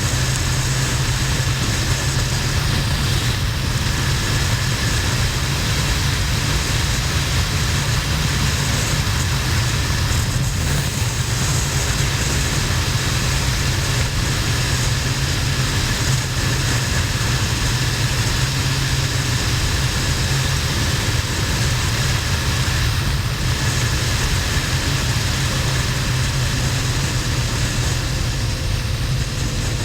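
Harley-Davidson XL1200N's air-cooled V-twin engine running steadily at motorway cruising speed, under a constant rush of wind noise on the microphone.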